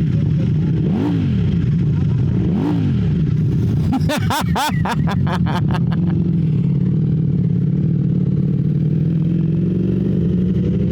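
Ducati Streetfighter V4S's V4 engine running on the road, heard from the rider's helmet camera. Its note rises and falls a few times, there is a brief burst of sharp pops and sweeping pitch about four seconds in, and the note climbs slowly near the end as the bike accelerates.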